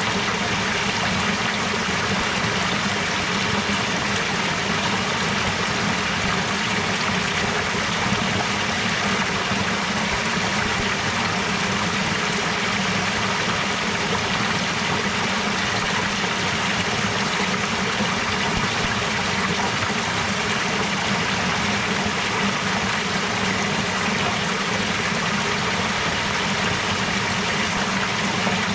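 Running water of a stream, flowing steadily and evenly without a break.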